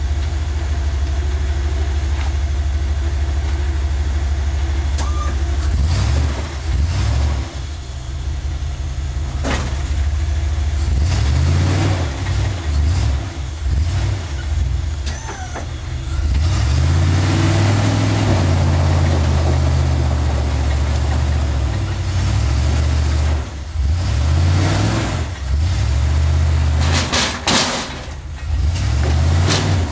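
Off-road rig's engine revving up and falling back in repeated bursts as it tries to climb a rock ledge, its tyres finding little grip: three of them have nothing to grab onto and only the left rear has any bite. A few sharp knocks near the end.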